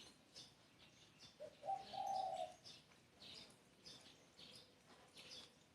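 A spotted dove cooing once about two seconds in, a short lead note and then a longer note, while small birds chirp high and thinly throughout.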